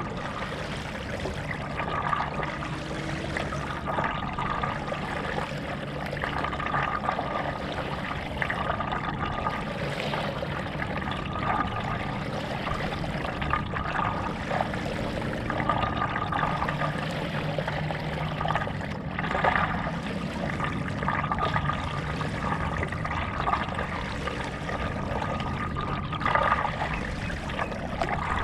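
Stand-up paddle strokes in lake water: the blade dips and water trickles and splashes off it, repeating about every two seconds.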